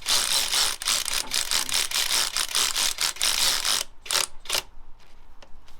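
Hand ratchet wrench clicking rapidly as it is worked on a bolt for about four seconds, then two separate clicks, followed by a few faint ticks.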